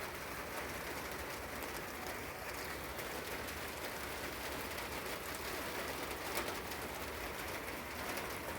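Steady, moderate rain falling and pattering.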